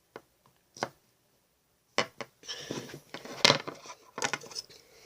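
Irregular knocks, clicks and clatter of hard objects being handled and set down on a surface, with the loudest knock about three and a half seconds in.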